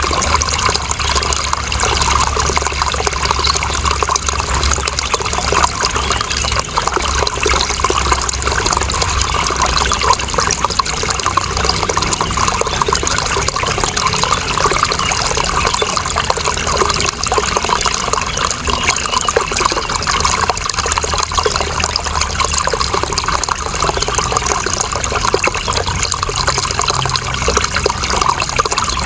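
Running water flowing steadily: a continuous, even rush and splash with a low rumble underneath and no break or change.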